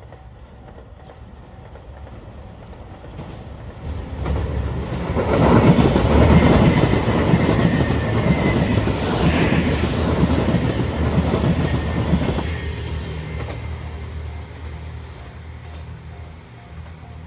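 A train passes over a level crossing, its wheels clacking over the rail joints. It builds up over about two seconds, is loudest for about eight seconds, then fades away. A level-crossing warning bell rings in a steady repeating pattern at the start and again at the end.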